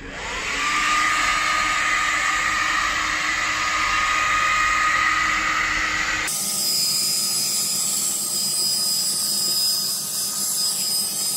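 Handheld hair dryer switched on, its motor whine rising briefly as it spins up, then blowing steadily. About six seconds in the sound changes abruptly to a thinner, higher-pitched blowing.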